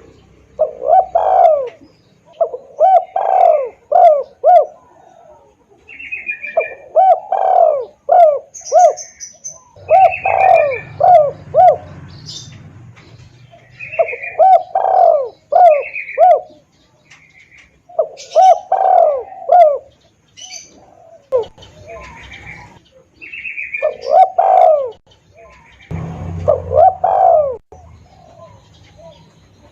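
Spotted doves cooing: phrases of several rolling coo notes repeat every three to four seconds. Short higher chirps fall between the phrases.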